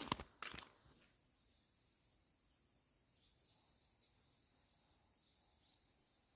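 Steady, faint high-pitched chorus of insects chirring, with a few crunching footsteps in the first half second.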